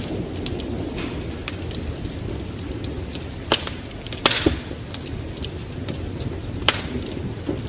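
Wood fire crackling in a fireplace: frequent sharp snaps and pops over a low, steady rumble of the flames. Louder pops come about three and a half, four and a quarter, and nearly seven seconds in, the middle one with a brief hiss.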